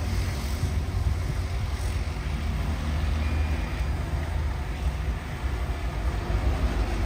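Heavy diesel earthmoving machinery running steadily, a continuous low engine rumble.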